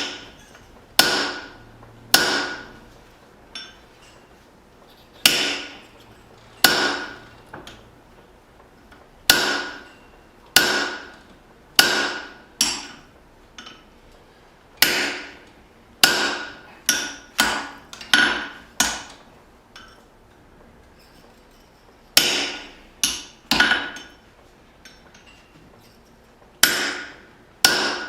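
Hand hammer striking a drift to punch the eye of a small forged hatchet: single sharp metal-on-metal blows about a second apart, each with a short ringing tail, broken by a couple of brief pauses.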